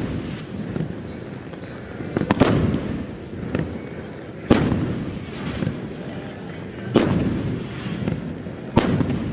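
Aerial fireworks shells bursting: four big booms about two seconds apart, with a few smaller cracks and a rumbling echo between them.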